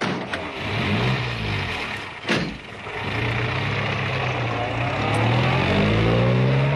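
Car engine pulling away, its pitch rising, dropping back a couple of seconds in, then climbing steadily again as it accelerates. A single sharp knock comes just over two seconds in.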